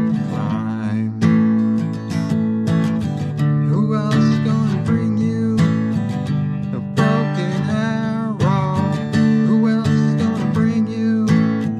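Acoustic guitar strummed in a steady rhythm, an instrumental passage with wavering melody notes over the chords.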